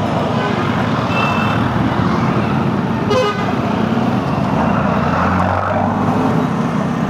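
Steady road traffic noise in a jam, with a short vehicle horn toot about a second in and a louder horn beep about three seconds in.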